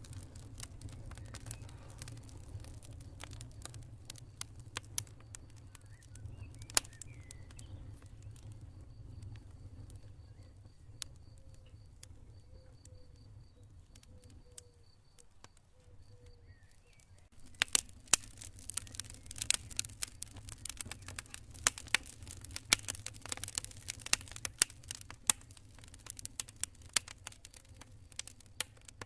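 Campfire crackling: scattered sharp pops over a low steady rumble, growing into dense rapid crackling about two-thirds of the way in. Through the middle a cricket chirps in a steady pulsing train.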